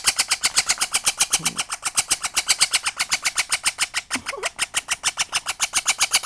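Baby green Princess parrot giving rapid, rhythmic chick calls, about eight harsh pulses a second in an unbroken run.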